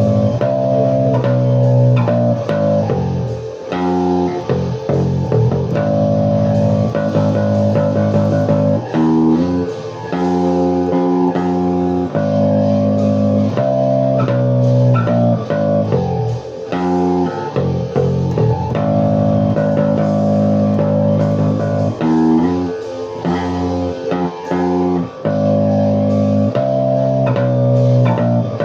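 Instrumental rock music on guitar and bass guitar, with no vocals, playing a repeating chord pattern.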